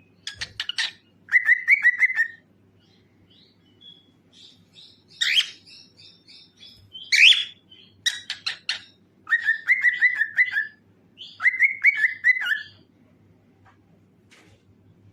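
Cockatiel singing: phrases of sharp chirps and short warbling trills, about seven phrases with brief pauses between them, quieter near the end.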